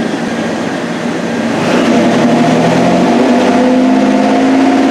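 Car engine running at idle. About a second and a half in, a whirring hum rises in pitch and level, then holds steady and becomes the loudest sound.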